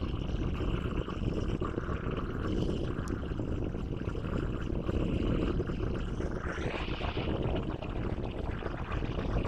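Steady low rumble of a General Electric diesel locomotive's engine running at idle, with a brief rise in a higher hiss about seven seconds in.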